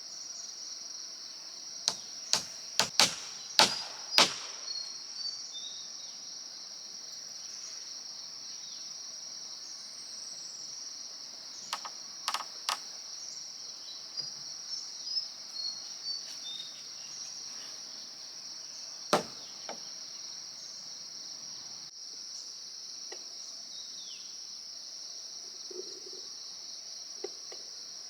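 A steady, high-pitched drone of insects (crickets or cicadas) runs throughout. Sharp knocks cut through it: a quick run of about six a couple of seconds in, a few more around the middle and a single one later.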